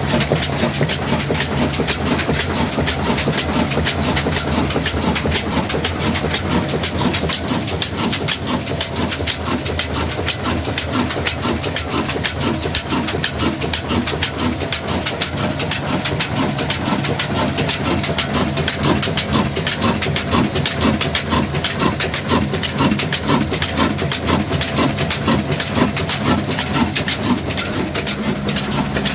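Old single-cylinder stationary diesel engine running at a steady speed, a regular beat of about three strokes a second over a constant hiss.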